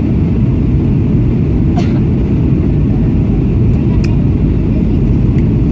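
Steady loud rumble of cabin noise in a Boeing 737-800 in flight, from engines and airflow, with a couple of faint clicks.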